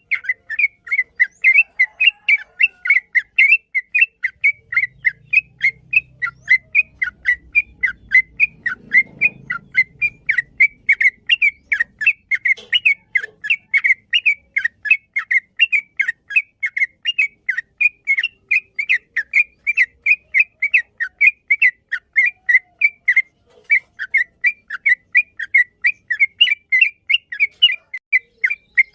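Yellow-vented bulbul (trucukan) singing a long, unbroken run of short, quick notes, about four a second: the rapid rolling 'ropel' song prized for training songbirds.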